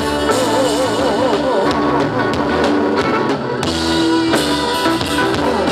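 Live band playing an instrumental passage of a Thai pop song, with drum kit and bass under a wavering melody line.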